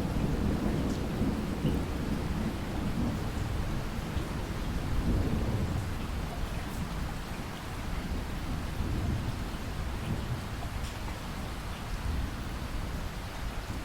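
Thunderstorm: a long low rumble of thunder that swells and fades, easing off toward the end, over steady rain with scattered drops.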